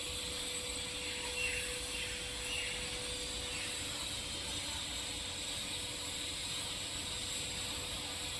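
TIG welding arc on a steel pipe joint, a steady hiss with a thin, even tone under it.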